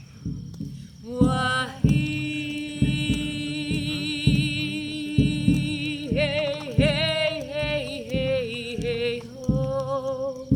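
Shamanic chant: a woman sings long, wavering held notes over a steady low drumbeat.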